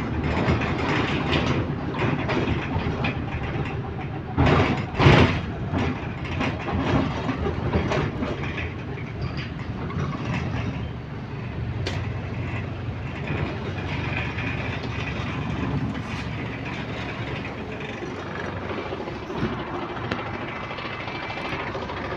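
Bus running on the road, heard from inside: a steady engine and road rumble with rattles and clicks, and a louder clatter of knocks about four to five seconds in.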